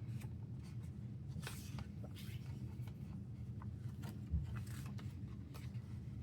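Paper rustling and light handling as the pages of an album photo book are turned, with a soft low thump about four seconds in, over a steady low background rumble.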